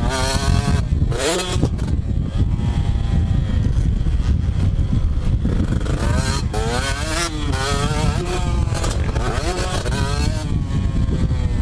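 Motocross dirt bike engine revving up and down repeatedly, the pitch climbing and dropping as the throttle opens and closes, over a constant low rumble.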